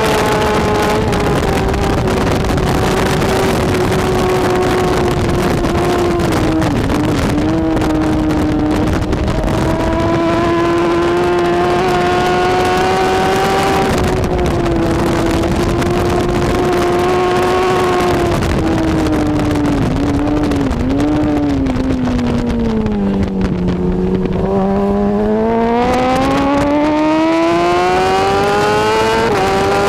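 BMW S1000RR inline-four superbike engine running hard at racing speed, its pitch holding high with brief wobbles about 7 and 20 seconds in. About three-quarters of the way through the revs fall steeply, then climb again as the bike accelerates.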